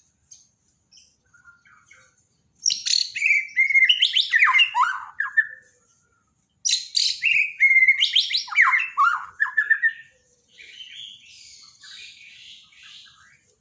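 White-rumped shama (Borneo murai batu) singing: two loud phrases of sharp clicks and falling whistles, each about three seconds long, then softer scratchy twittering near the end.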